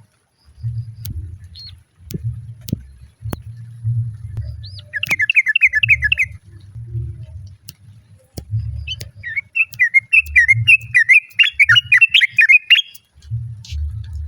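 Yellow-vented bulbul (trucukan) singing: a quick run of bubbling chirps about five seconds in, then a longer chattering phrase of rapid rising and falling notes in the second half. Low rumbling noise comes and goes underneath.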